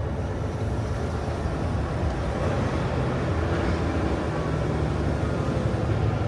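Semi truck's diesel engine running steadily, a low drone.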